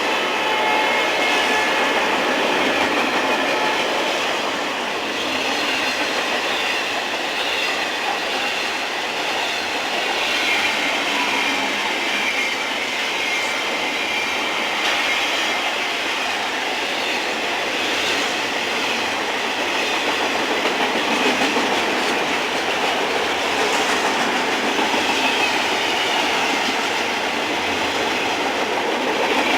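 Railroad cars rolling past, a steady rumble of steel wheels on rail with clicks over the rail joints that come more regularly near the end, and faint wheel squeal.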